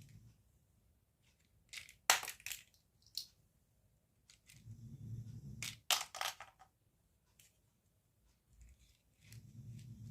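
Small plastic toy pieces and packaging being handled, with sharp clicks and crackles about two seconds in and again about six seconds in, between soft low rubbing sounds.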